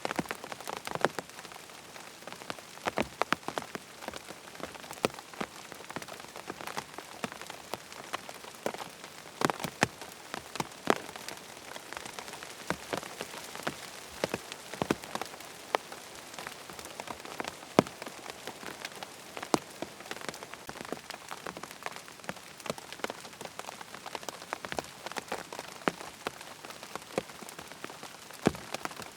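Steady rain pattering on a tent's fabric, a constant hiss with many separate, irregular drop taps.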